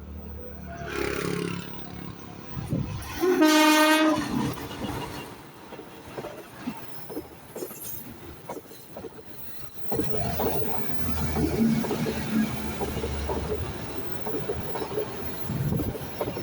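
Passenger train's locomotive sounding one horn blast of about a second, the loudest sound. From about ten seconds in the carriages pass with a steady rumble and wheels clicking over the rail joints.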